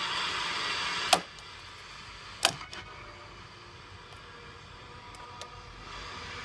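Blaupunkt Bamberg car radio's speaker giving out FM hiss between stations, with two sharp clicks about a second and two and a half seconds in as it is switched from one station to another; after the first click the hiss drops to a fainter level.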